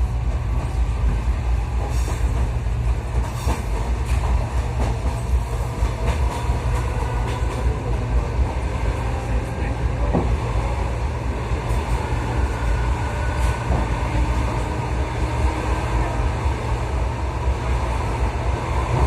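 Suburban electric train running on the rails, a steady rumble of wheels and carriage heard from inside the car, with a few faint clicks now and then.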